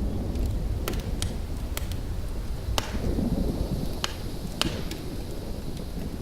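Crackling fire: about half a dozen sharp, scattered pops over a steady, low rumbling noise.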